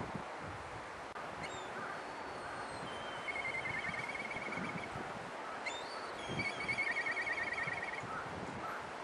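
Black kite calling twice while perched, each call a thin high whistle running into a rapid wavering trill, the second call a little louder.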